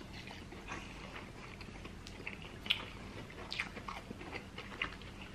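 Close-up chewing of fried fish and lobster meat by two people, with faint, irregular wet mouth clicks.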